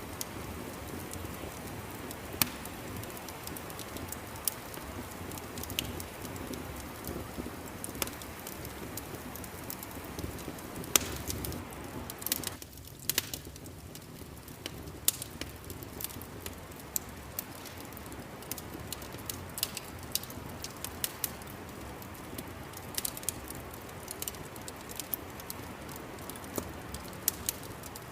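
Wood fire crackling in a fireplace: a steady low rumble with frequent irregular sharp pops and snaps.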